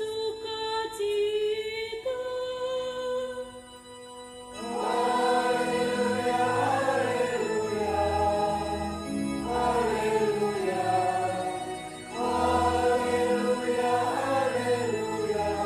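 Church choir singing a hymn. A softer held note leads in, and the full choir comes in about four and a half seconds in, singing phrases over a steady low part.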